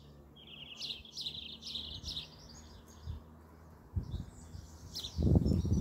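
Small songbirds chirping and singing in repeated short high phrases, with a brief trill about half a second in. A low knock about four seconds in, and near the end a loud low rumbling noise sets in and covers the birds.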